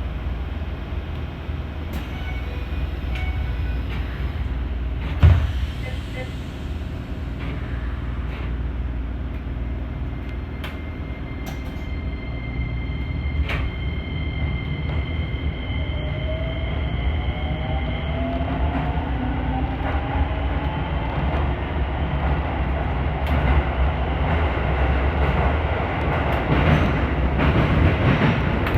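Keisei 3000 series electric train running on the rails: a steady low rumble with scattered clicks from the wheels. There is one sharp thump about five seconds in, and a whine rising in pitch around the middle as the train picks up speed.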